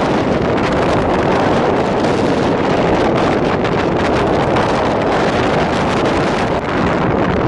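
Loud, steady wind buffeting the microphone over the running noise of a DEMU (diesel-electric multiple unit) passenger train moving along the line.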